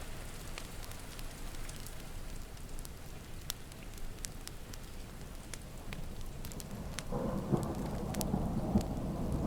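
Steady rain with scattered sharp crackles from a wood fire; about seven seconds in, a low rumble of thunder rolls in and keeps building.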